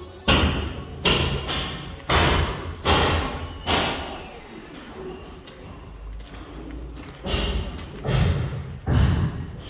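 A series of heavy thuds and knocks at uneven intervals: six in the first four seconds, then three more near the end.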